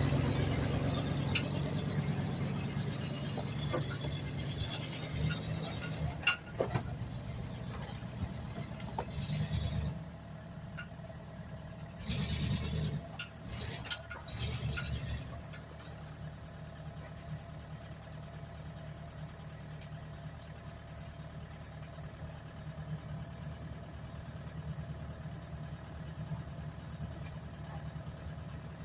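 Engine of a homemade Doodlebug skidder built from a Dodge W250 pickup, running steadily. It is louder over the first several seconds and settles to a lower, even run from about a third of the way in. A few sharp knocks come before that, and short bursts of noise follow around the middle.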